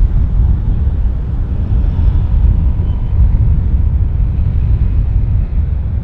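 Jet airliner's engines rumbling, deep and steady, with a faint thin whine above the rumble.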